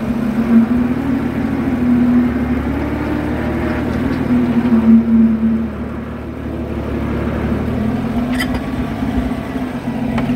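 Oliver 770 tractor engine running steadily under load while pulling a hay rake, its hum easing a little about midway and building back up, with a single sharp click near the end.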